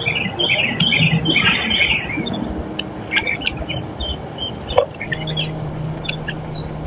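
Wild birds chirping and calling: a busy cluster of quick high chirps over the first two seconds, then scattered single chirps.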